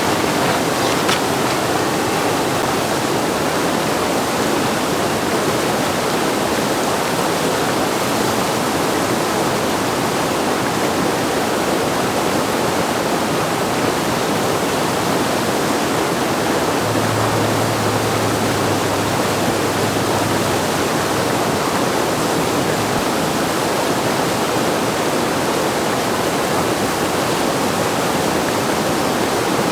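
Loud, steady rush of whitewater from a river standing wave at high flow.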